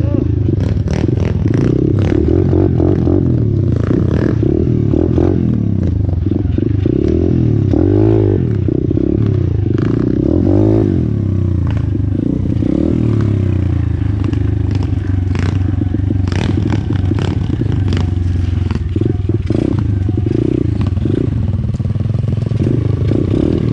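125cc pit bike's single-cylinder four-stroke engine running under load off-road, its pitch rising and falling with the throttle. Scattered clattering knocks come from the bike over rough ground.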